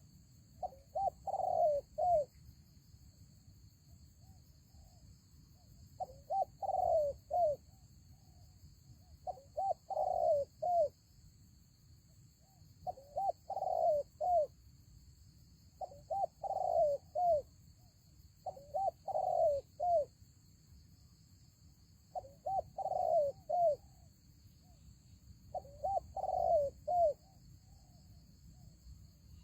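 Spotted dove cooing: a phrase of several short notes, repeated every three to four seconds.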